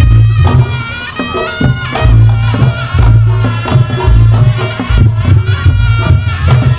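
Reog Ponorogo music played loud: a shrill, wavering reed melody from a slompret (trumpet-like shawm) over heavy, repeating drum and gong booms.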